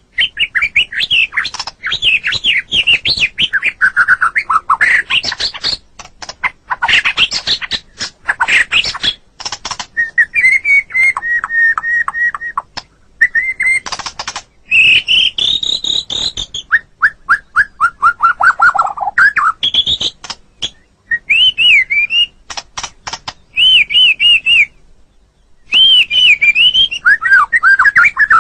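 White-rumped shama (murai batu) singing a loud, varied song: whistled phrases that glide up and down, fast runs of repeated notes and trills, broken by short pauses.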